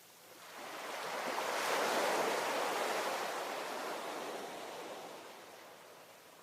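Ocean wave breaking and washing onto the shore: the surf swells up from about half a second in, peaks around two seconds, then slowly fades.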